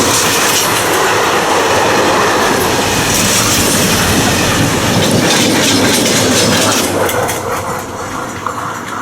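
Freight train wagons rolling past at close range, wheels clattering over the rail joints. The train noise is loud until about seven seconds in, then fades as the end of the train moves away.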